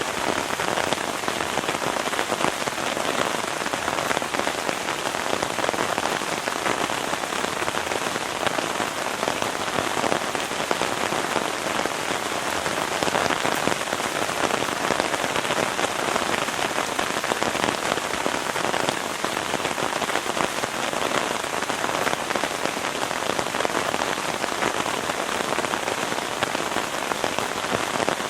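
Heavy rain falling steadily: a dense, even patter of countless drops that neither builds nor eases.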